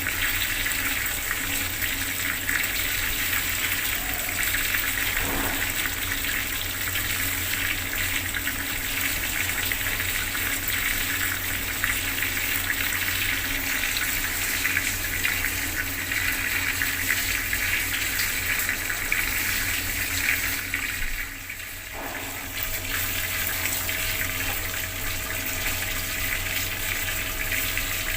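Water from a bathroom tap running and splashing steadily. It goes briefly quieter about three-quarters of the way through, then resumes.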